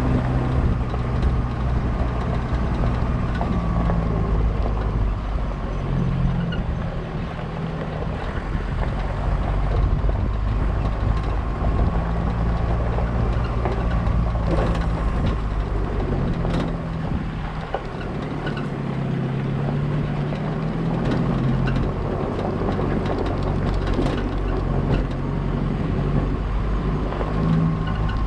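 A motor vehicle's engine running while driving, with steady road noise; the engine note shifts up and down several times as it changes speed.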